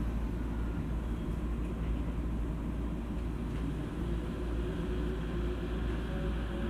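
Interior running sound of a JR East E231 series commuter electric train: a steady low rumble, with a motor whine of steady tones coming in near the end.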